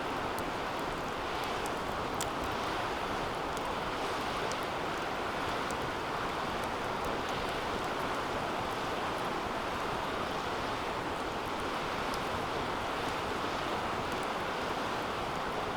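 Wood fire burning in a metal fire pit: a steady rushing flame noise with scattered small crackles and pops from the burning wood.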